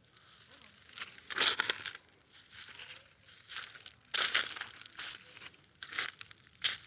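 Footsteps crunching on dry leaf litter and forest ground, in irregular dry crunches about once a second.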